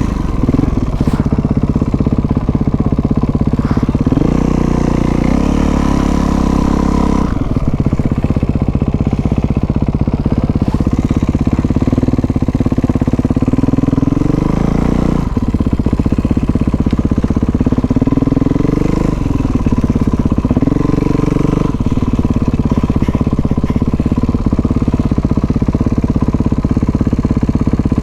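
Kawasaki dirt bike engine running under way. Its pitch climbs under throttle and then drops suddenly several times, as it shifts up through the gears.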